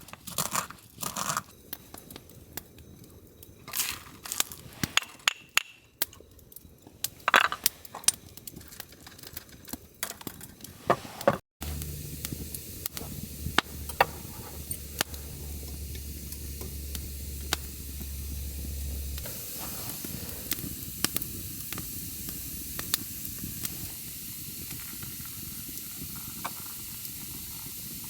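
Scattered clicks and short handling clatter. Then a steady hiss with frequent sharp crackles from the wood campfire, with food sizzling over the fire.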